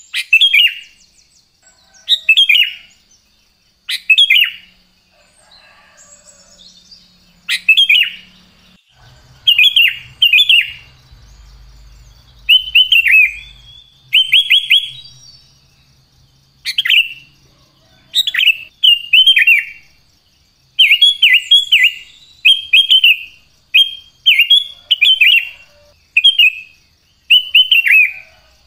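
Sooty-headed bulbul (kutilang) singing: short, bubbly whistled phrases of a few quick falling notes, every couple of seconds at first, then in faster back-to-back runs over the second half.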